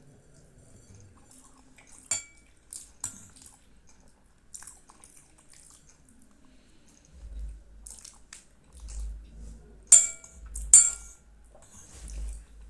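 Metal spoon clinking and scraping against a dessert bowl or plate: a few sharp ringing clinks about two and three seconds in and two louder ones near the end, with soft scrapes between.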